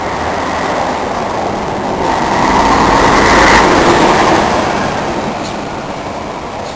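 Scania K113 coach's diesel engine running as the bus drives past close by, getting louder to a peak about halfway through and then fading as it moves away.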